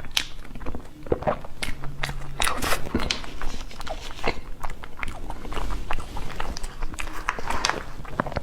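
Close-miked eating sounds: a person biting and chewing dessert, with many quick, irregular mouth clicks and soft crunches.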